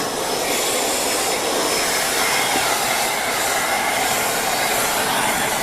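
Shark Rotator Speed Lift-Away upright vacuum running steadily, its brushless motor drawing air through the hose and dusting brush, with a thin steady high whine over the rush of suction.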